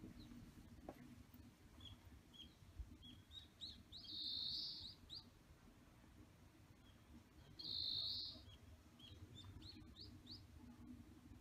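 Faint birds chirping: many short, high chirps, and twice a louder, buzzier call lasting about a second, roughly four seconds apart.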